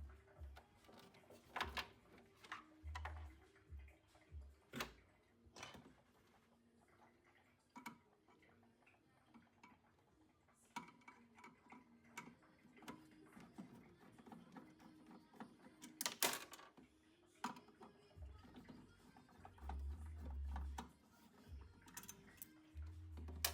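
Faint, irregular clicks and light knocks of hand tools and boiler parts being handled, with a few low thumps.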